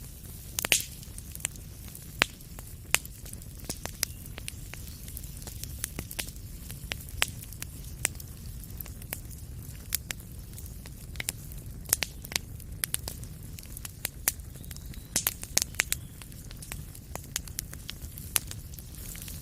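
Wood fire crackling in a fireplace: a steady low rumble of flames under irregular sharp pops and snaps, several of them loud.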